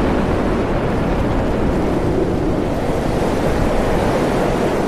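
Loud, steady, deep rush of hurricane-force wind: a sound effect for a blast of hot air and volcanic ash surging past.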